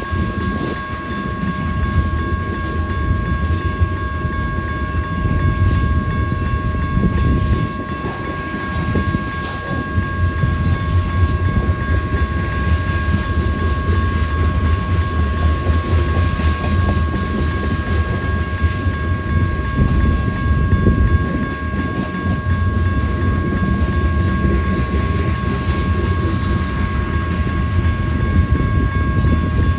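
A freight train's cars rolling past, wheels rumbling and clacking over the rails, with a steady high-pitched tone held throughout.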